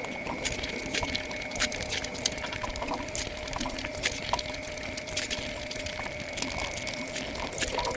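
Close-miked eating sounds of luchi with curry sped up five times: a fast, dense run of wet clicks and smacks.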